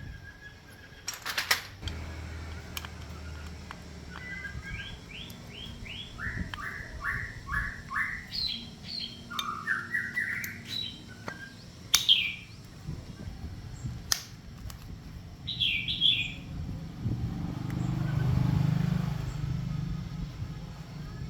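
A small bird singing in repeated runs of short, quick chirps, with a few sharp knocks and a low rumble that swells near the end.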